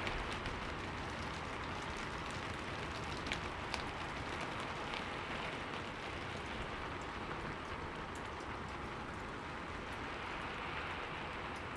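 Steady rain falling, with scattered individual drops ticking on a window pane.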